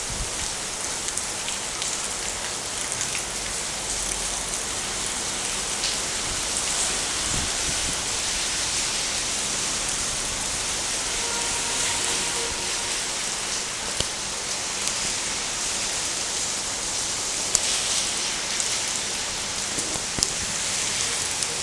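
Steady rain falling, an even hiss with scattered sharp taps of drops.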